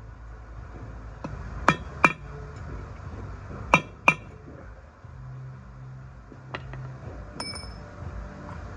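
Hammer striking a steel punch, ringing metal clinks: two pairs of sharp taps, then a few lighter clicks. A rear-axle wheel bearing race is being driven down into the hub until it is fully seated.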